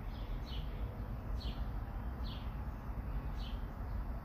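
A bird chirping again and again, short falling chirps about once a second, over a steady low rumble.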